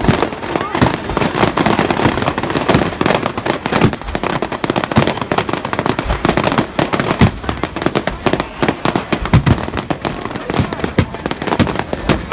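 Fireworks display going off: a dense, continuous run of sharp bangs and crackles, many a second, with no pause.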